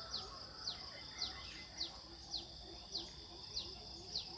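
Nature ambience: a short, high, downward-sliding call repeating about twice a second over a steady high-pitched insect drone.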